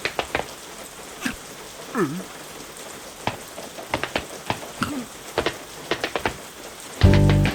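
Cartoon rain sound effect: a steady patter of rain with scattered sharp drop plinks, broken by a couple of short gliding vocal squeaks. Loud music with a heavy bass starts near the end.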